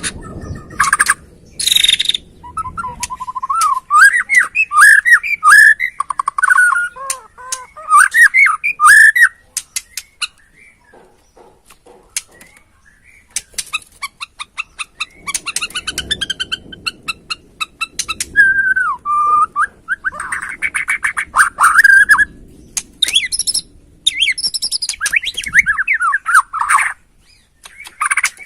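Borneo white-rumped shama singing: loud, varied whistled phrases with sliding notes, broken by fast runs of dry clicking rattles, with a quieter pause about ten seconds in.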